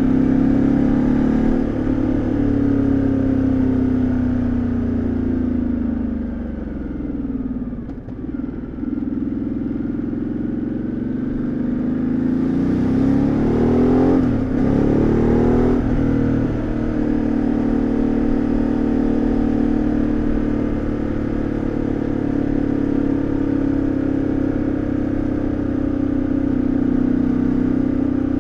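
2013 Ducati Multistrada 1200S's 1198 cc L-twin engine and exhaust, heard from onboard. The engine note drops as the bike slows over the first several seconds. About ten seconds in it climbs as the bike accelerates, with breaks in the note near fourteen and sixteen seconds, then it settles into a steady cruise.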